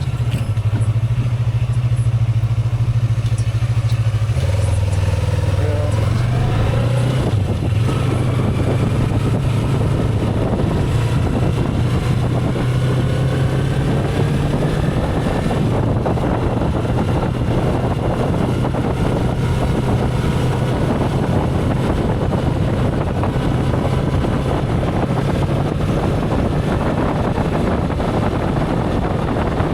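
Motorcycle engine running under way, its note shifting twice in the first few seconds, with wind rush that grows after about seven seconds.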